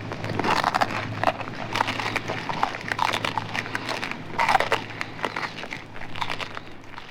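Sound-effect of creatures eating: irregular wet chewing, crunching and crackling with a few short grunts, over a steady low hum.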